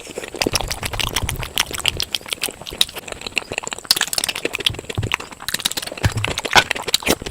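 Close-miked eating: rapid, wet chewing and mouth clicks as puri with spicy potato curry is eaten, a dense run of short sharp smacks.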